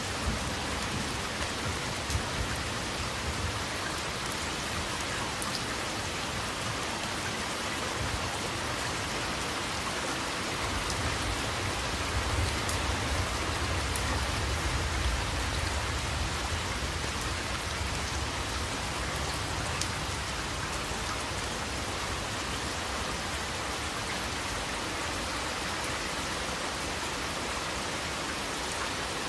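Steady heavy rain falling, an even, dense patter on surfaces. A low rumble swells for several seconds near the middle.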